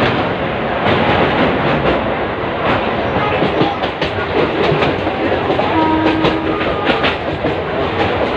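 Train running on the rails, a steady loud rumble with repeated clicks of the wheels over rail joints. A brief steady pitched tone sounds about two-thirds of the way through.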